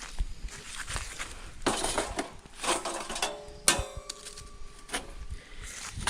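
Metal barbecue gear being handled: scraping and clattering, with one sharp metallic clank about three and a half seconds in that rings briefly.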